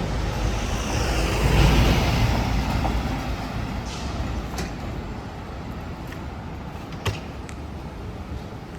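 City street traffic on a wet road: a vehicle passes with tyre hiss and engine, swelling about two seconds in and then fading. A sharp click comes near the end.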